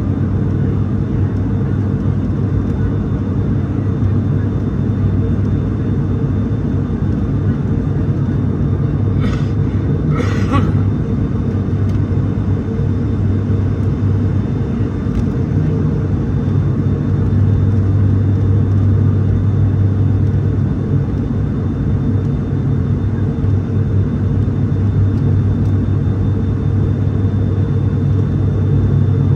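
Steady drone of an ATR 72-600's Pratt & Whitney PW127 turboprops and six-bladed propellers, heard inside the passenger cabin, with a strong low hum from the propellers. It gets somewhat louder a little past halfway. Two short hissing sounds come about a third of the way in.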